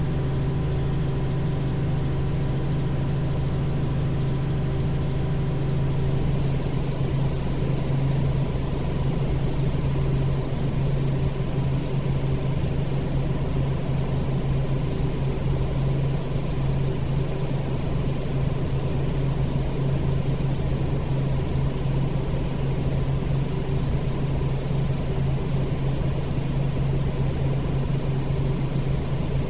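Robinson R44 helicopter's piston engine and rotors running with a steady, even drone and a strong low hum.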